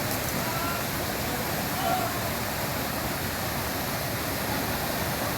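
Rushing water of a mountain stream, a steady full hiss, with a few faint voices in the distance.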